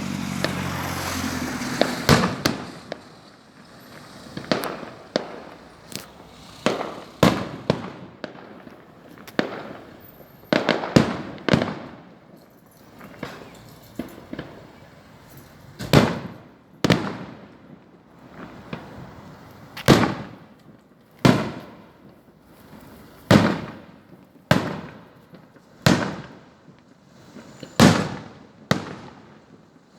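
Fireworks going off: a string of sharp shell bursts, roughly one every second or two, each followed by a rolling echo. A steady crackling hiss fills the first two seconds before the bangs take over.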